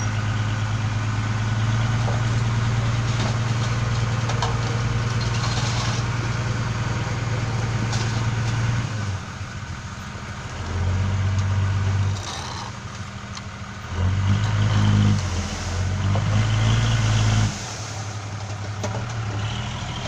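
Heavy diesel engine running close by, held at a raised speed, then dropping back toward idle and revving up again in several short spells of a second or two each.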